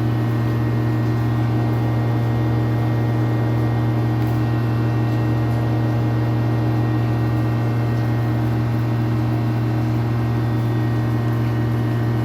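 A steady low machine hum with a constant pitch and no change in level.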